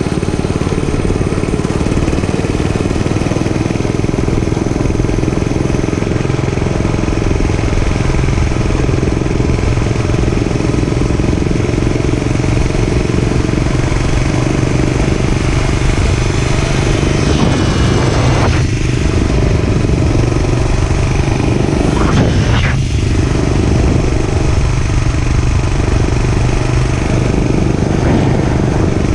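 Dirt bike engine running steadily while riding, with two brief sweeps in pitch about eighteen and twenty-two seconds in.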